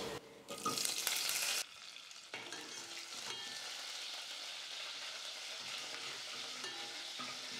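Sliced shallots and curry leaves sizzling in hot oil with cumin, mustard seeds and dried red chillies as they are stirred with a steel ladle, the tempering stage of a sambar. The sizzle is louder for about the first second and a half, then settles into a steady, softer fizz.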